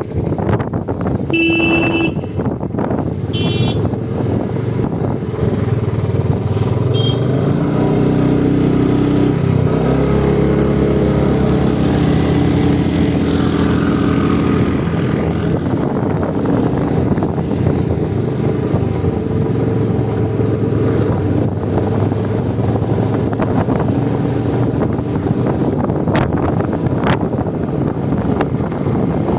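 Motorcycle engine running steadily on the move, its pitch shifting up and down about a third of the way through as the throttle changes. A short vehicle horn toots about two seconds in, with a second brief beep soon after.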